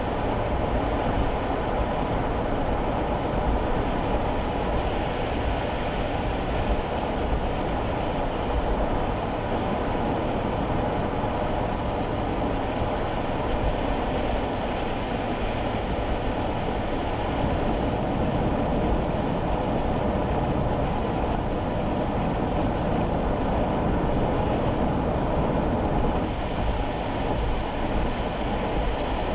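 Steady road noise inside a kei car's cabin while driving on wet roads in the rain: the low hum of tyres and engine, with little above the midrange.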